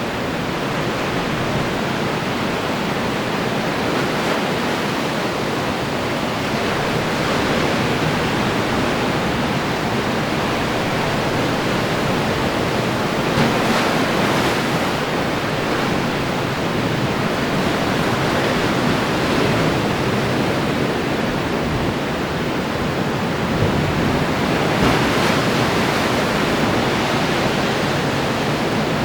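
Ocean surf: a continuous wash of waves, with waves breaking a little louder about halfway through and again near the end.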